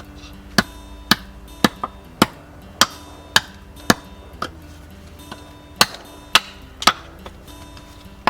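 Repeated sharp chopping strikes, about two a second. A run of seven is followed by a pause of nearly two seconds, then three more strikes.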